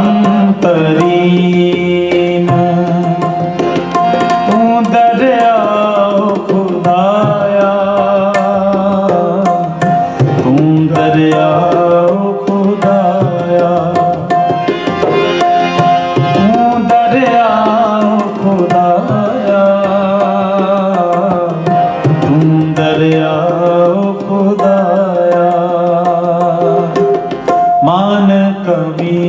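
Sikh kirtan music: a harmonium holding steady reed chords over a tabla playing a continuous rhythm, with a singing voice gliding through melodic phrases in places.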